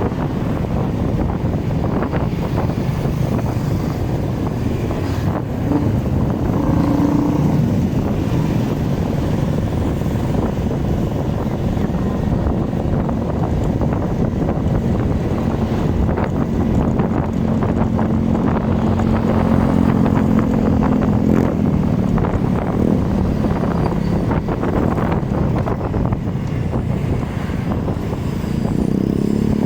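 Motorcycle riding noise: a steady engine and road rumble under wind buffeting the microphone, with the engine note of surrounding traffic rising and falling now and then.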